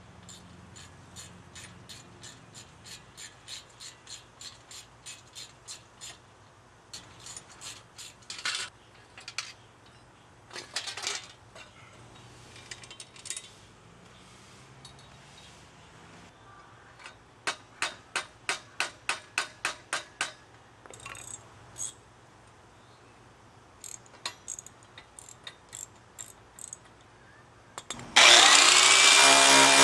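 Hand tools working on metal bicycle parts: a run of light clicks about twice a second, then groups of sharper metal knocks and taps, some in quick series. Near the end a power tool starts and runs loudly with a high whine.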